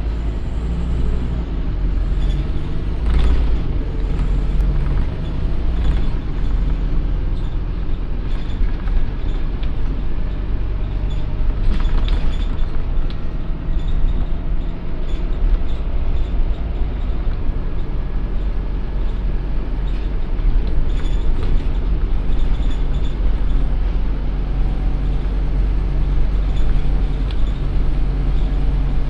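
Scania OmniCity N230UD double-decker bus running, its five-cylinder diesel giving a steady low hum, with scattered brief rattles and knocks over the top.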